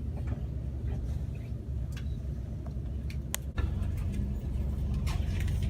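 Steady low rumble of a moving passenger train, heard from inside the carriage, with scattered clicks. There is one sharp click about three and a half seconds in, after which the rumble grows louder with a low hum.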